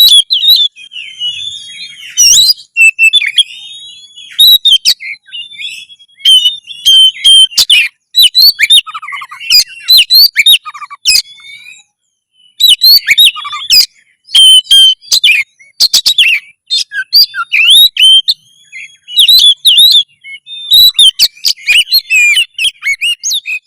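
Oriental magpie-robin (kacer) singing a loud, varied song of quick whistles, chirps and sharp clicking notes, a male in full fighting song. It breaks off briefly about twelve seconds in, then carries on.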